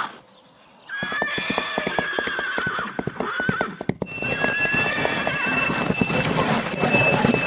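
Horse neighing with a quick run of hooves clip-clopping, starting about a second in; a steady high ringing joins about four seconds in.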